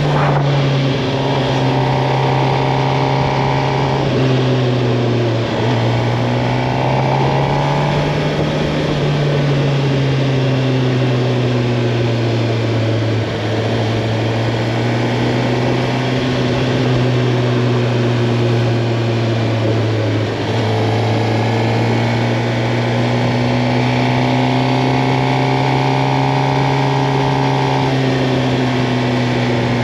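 Suzuki GSX-R 750's inline-four engine running while riding, loud and steady, its pitch rising and falling with the throttle and briefly dipping three times.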